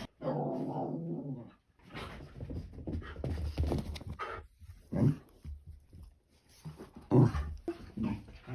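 A pet dog whining and grumbling: a low drawn-out whine at the start, then short irregular huffs and whimpers, the loudest a few seconds in and near the end.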